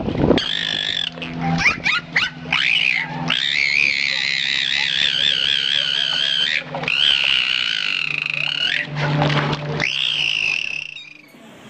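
An animal giving long, high, wavering calls, several in a row, with a few short rising swoops between them near the start.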